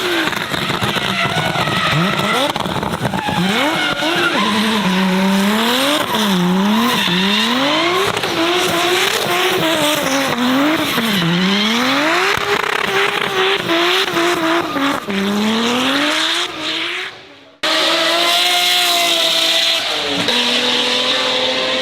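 A high-performance car engine revving hard, its pitch swinging up and down again and again, over screeching tyres, as in a drift run. About 17 s in the sound cuts off for a moment, then another car's engine follows with a steadier note.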